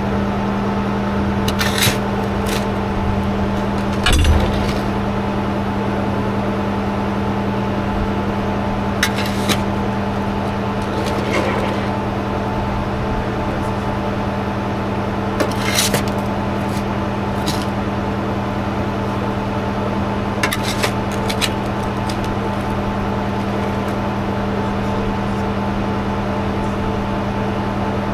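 A machine's engine running steadily at idle, with a few short knocks and clinks scattered over it, like tools or metal striking now and then.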